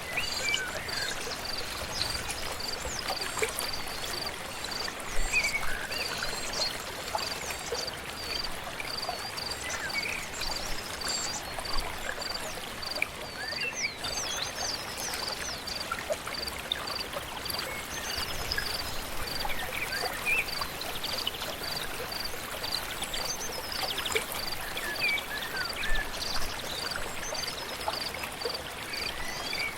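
A flowing stream runs steadily while birds sing short chirps over it. A high, thin note repeats evenly about twice a second throughout.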